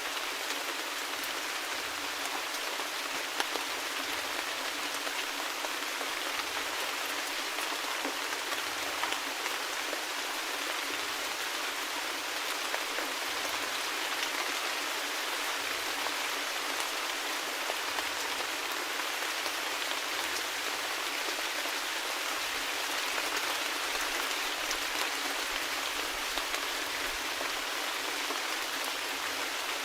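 Steady rainfall, a constant hiss of rain with scattered individual drop ticks on a surface.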